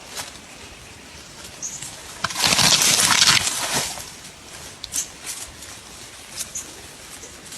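Outdoor natural ambience with short, high bird chirps now and then. About two seconds in, a loud rushing noise lasts about a second and a half.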